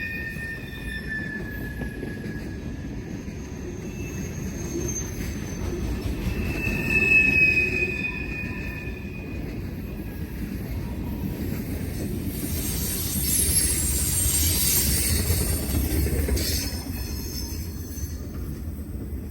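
Norfolk Southern freight train rolling past with a steady low rumble, its wheels squealing in high, slightly gliding tones that come and go. About twelve seconds in, a louder rushing hiss rises for a few seconds, then fades.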